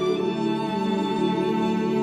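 Bowed string instruments, led by a violin, playing sustained, overlapping notes, with a new note entering just after the start.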